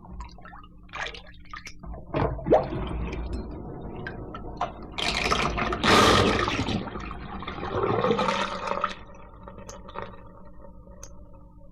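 Sink draining: water gurgling down the drain, loudest in the middle and thinning to a few drips near the end.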